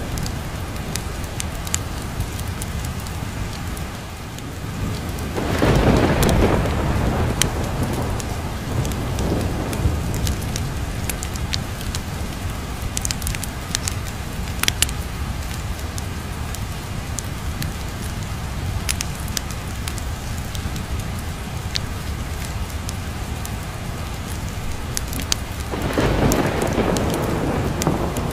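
Steady heavy rain, with two low rolls of thunder swelling up, one about five seconds in and another near the end. Scattered sharp ticks run through it.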